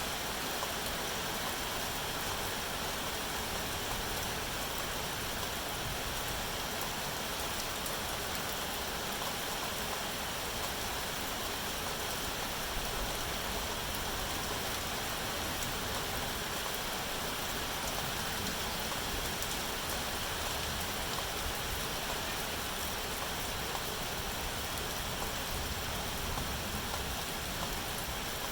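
Steady rain falling, a constant even hiss of rainfall with no breaks or changes.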